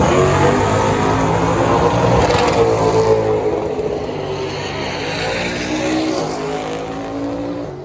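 Drag racing car's engine running hard at high revs, its pitch rising and falling, the sound slowly fading over the last few seconds.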